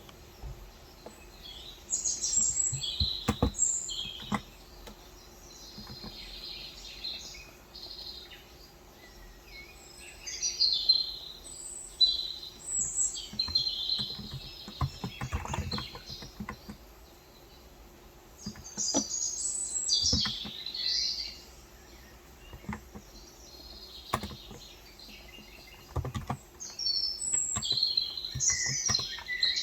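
Small birds chirping and twittering in bursts of a few seconds each, with scattered single key presses from a Cox Endeavor 35 g electro-capacitive tenkeyless keyboard, picked up by a phone's microphone.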